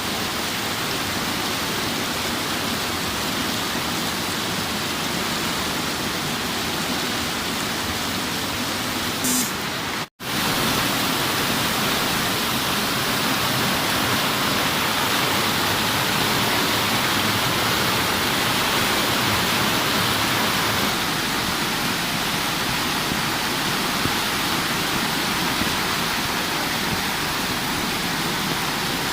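Torrential rain: a steady, loud hiss of a heavy downpour, broken by a sudden momentary drop-out about ten seconds in.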